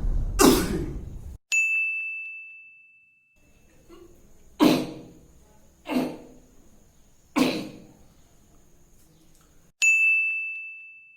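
A bell-like ding sound effect rings and fades out about a second and a half in, followed by three short sneezes about a second and a half apart, then the same ding again near the end.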